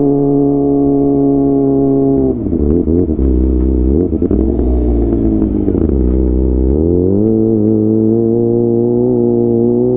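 Kawasaki ZX-25R's inline-four engine through a DX Generation GPR full-system exhaust, running at a steady engine speed, then easing off with the pitch dropping and wavering from about two seconds in. Around seven seconds in the revs climb again and hold steady.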